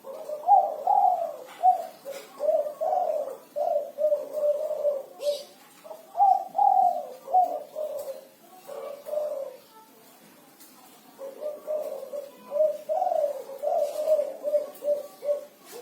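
Spotted dove (derkuku) cooing in full voice, the 'kuku 6' pattern kept by Indonesian dove fanciers. Three phrases, each a string of short notes, with a pause after the first and a longer one after the second.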